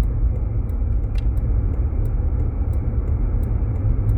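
Jeep Grand Cherokee driving slowly on snow, heard from inside the cabin as a steady low rumble of engine and road noise, with faint irregular light ticks.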